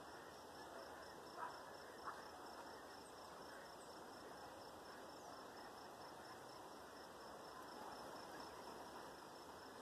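Faint outdoor ambience: an insect's thin, high, rapidly pulsing trill runs steadily under a soft hiss, with two faint clicks about a second and a half and two seconds in.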